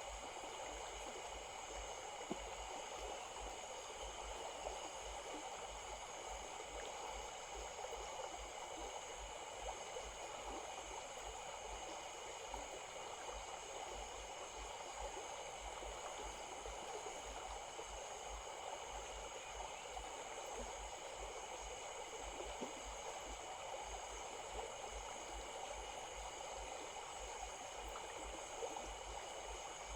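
A stream flowing steadily, an even rush of running water, with a faint steady high-pitched hum above it.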